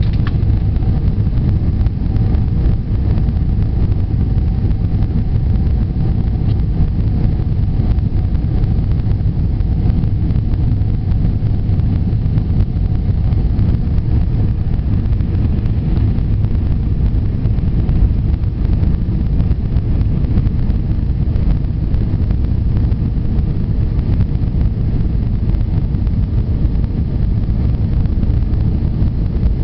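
Steady low roar of an Airbus A320 airliner heard inside the passenger cabin: engine and airflow noise, with faint steady tones above it.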